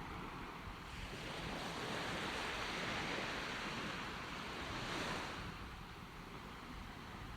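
Ocean waves breaking as surf: a wash of noise that swells over the first couple of seconds and eases off about five seconds in.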